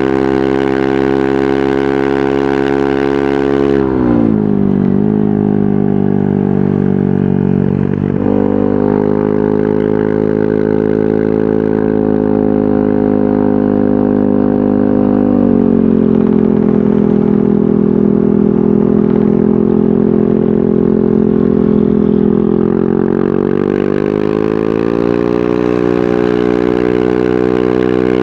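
Yamaha NMAX 155 single-cylinder scooter engine running through a VMAX Onyx aftermarket muffler, its revs falling about four seconds in, climbing back a few seconds later, easing off again past the halfway point and rising once more near the end.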